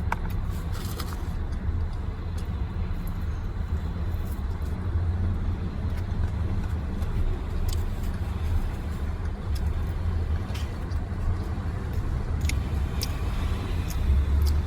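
Steady low rumble of a car's idling engine heard from inside the cabin, with a few faint clicks and taps scattered through it.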